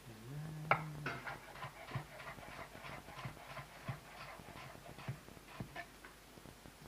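Kitchen clatter: an irregular run of short knocks and clinks of utensils and dishes, about two or three a second, after a brief low hum at the start.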